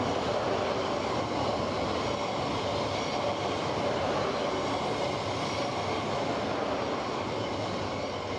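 E3-series Shinkansen train passing close by on the track, a steady rumble and rush of its wheels on the rails that begins to fade near the end as the last car goes by.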